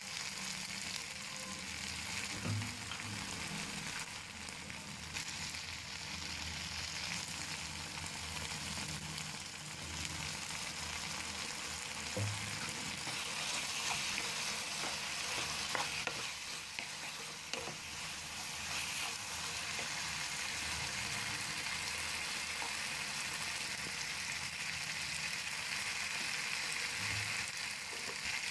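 Chopped onions, bell peppers and tomatoes sizzling steadily in a frying pan as a wooden spatula stirs them through.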